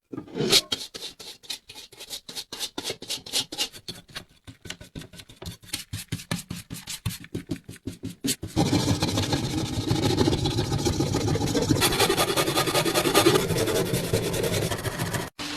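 Rapid back-and-forth scraping or brushing, about five strokes a second, for some eight seconds. Then a steady, dense machine noise like a small power tool runs until it cuts off abruptly near the end. This is typical of rust and dirt being worked off metal parts during a restoration.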